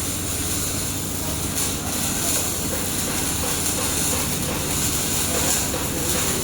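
Steady machine hum with a high hiss from an air-cooled handheld laser welder running, its cooling fan blowing.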